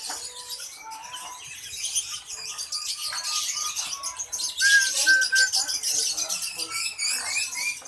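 Many caged songbirds chirping and twittering at once in a dense, high chorus that grows busier after about two seconds, with three short clear whistles near the middle.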